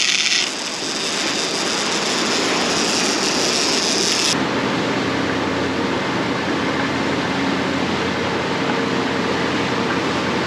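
Steady rushing noise of a motor yacht under way: wind and sea noise over a faint low engine hum. The hiss changes abruptly about four seconds in.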